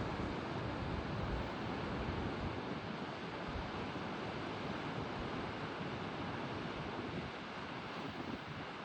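Wind buffeting the microphone in gusts over a steady wash of ocean surf below the sea cliffs.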